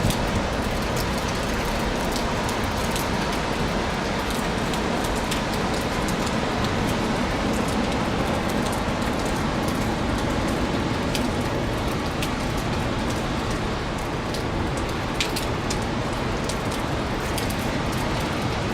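Strong wind and heavy surf making a steady, unbroken noise, with scattered faint ticks, as a typhoon approaches the coast.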